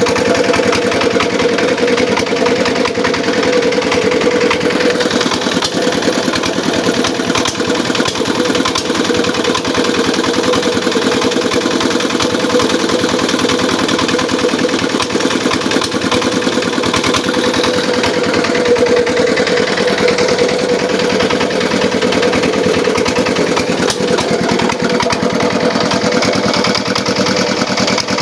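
Small engine running steadily at a constant speed, driving a homemade gambir-leaf grinding and pressing machine.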